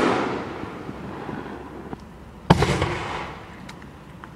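5-inch canister shell fireworks: the echoing tail of a shell's burst fades out, and about two and a half seconds in another sharp, loud boom goes off and trails away in echoes.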